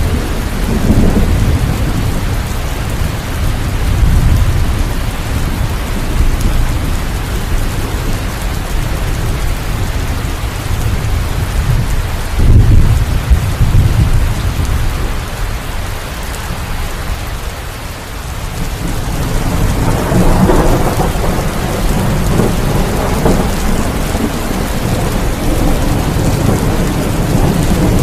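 Steady heavy rain with rolling thunder: deep rumbles swell and fade several times, the loudest about halfway through and another long roll starting about two-thirds of the way in.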